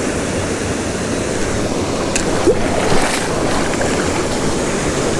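Steady rush of a small waterfall pouring into a pool, with a couple of sharp clicks about two and three seconds in.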